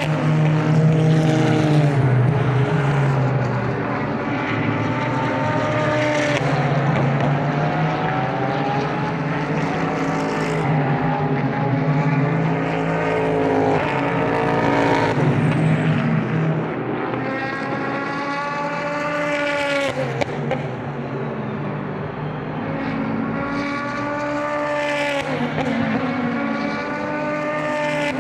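Super GT race cars passing one after another at speed, engines at high revs, each pitch sweeping down as a car goes by, with several cars overlapping.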